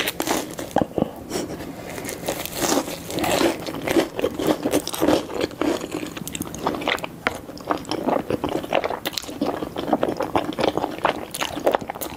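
Close-miked eating sounds of a mukbang: biting into and chewing cheese tteokbokki and a cheese corndog, with crisp crunches and wet, sticky mouth clicks coming thick and fast.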